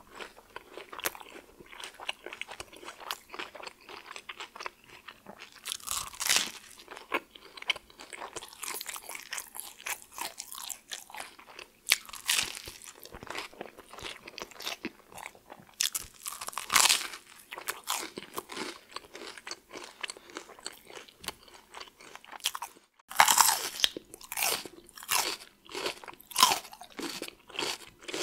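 A person chewing food: a steady run of small, clicky chews, with louder bites every few seconds and a faster, louder stretch of chewing near the end.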